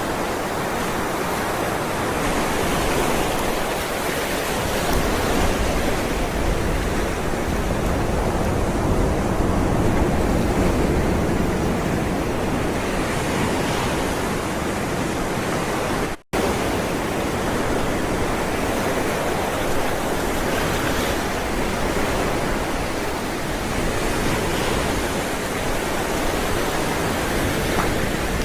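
Ocean waves rolling in and breaking as a continuous wash of surf that swells and eases gently. The sound cuts out completely for an instant about sixteen seconds in, then carries on.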